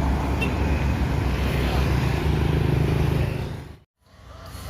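Heavy road vehicle's engine running loud and close with a deep rumble, which fades out quickly to a moment of silence about three and a half seconds in; quieter road noise follows.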